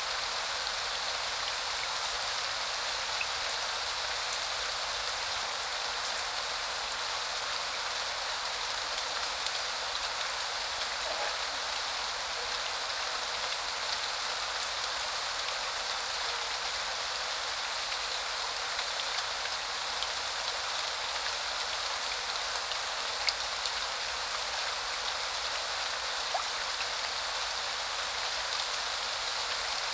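Steady spring rain falling, an even hiss with a few louder single drops ticking now and then.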